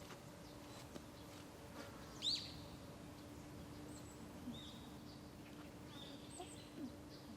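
Birds chirping: one loud, sharp chirp about two seconds in, then several short high calls, over a faint steady hum.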